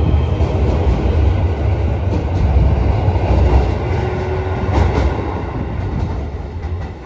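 JR Shikoku 7000 series electric train pulling out and passing close by, its wheels rumbling and clacking over the rails. The rumble eases as it draws away and drops off near the end.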